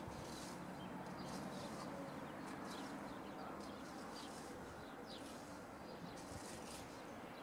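Birds chirping and calling in short, repeated high notes over a steady, faint background of outdoor noise.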